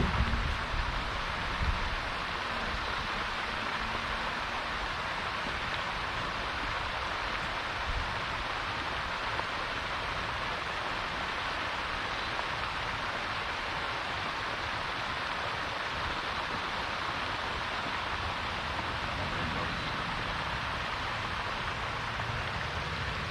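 Steady splashing hiss of a pond fountain's spray falling back onto the water, with a few low knocks in the first two seconds.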